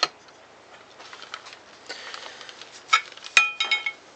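Small metal tools and saw parts being handled on a workbench: light clicks and rustling, then a sharp metallic clink about three and a half seconds in that rings briefly, followed by a few more clicks.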